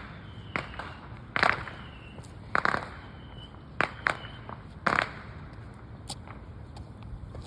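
Small firecrackers popping: a run of about five sharp, irregular cracks with fainter clicks between them.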